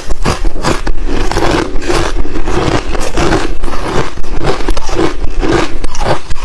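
Close-miked chewing of crushed, refrozen thin ice chips: loud, dense, irregular crunches one after another without a pause.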